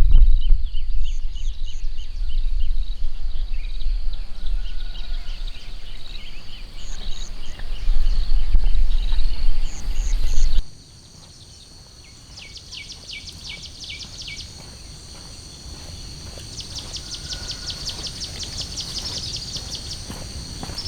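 Insects chirping in quick repeated trains of high pulses, over a loud low rumble that cuts off abruptly about ten seconds in. After that the chirping carries on alone against a quieter outdoor background, growing denser toward the end.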